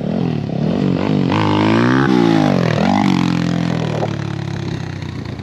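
Enduro motorcycle engine: a few quick throttle blips, then a hard rev climbing for about a second and falling back, then running steadily at lower revs. This is the throttle pattern of a wheelie attempt.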